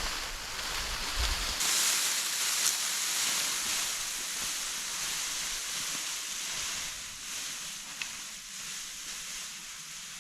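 Steady outdoor rushing hiss. Wind rumbles on the microphone for about the first second and a half, then stops abruptly.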